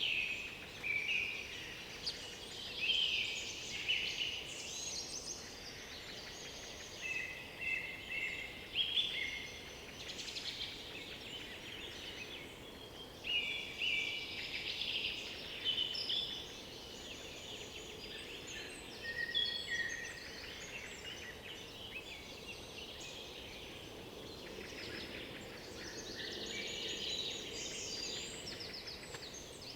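Several songbirds singing at once, short overlapping high chirps, trills and whistled phrases that come and go throughout, over a steady background hiss.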